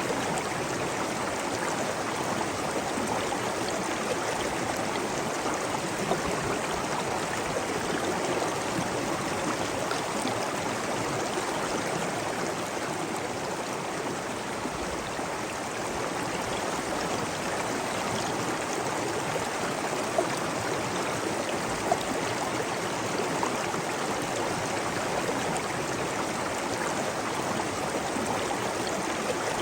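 Flowing water rushing steadily, like a stream or small waterfall, with two brief sharper splashes or ticks about two-thirds of the way through.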